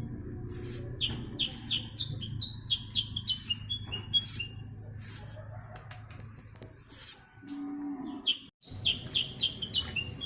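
Bamboo sendaren pita (ribbon kite hummer) droning with a steady low, moo-like hum that stops about six seconds in, followed by a short higher hum near the end. A bird chirps quick series of high notes over it.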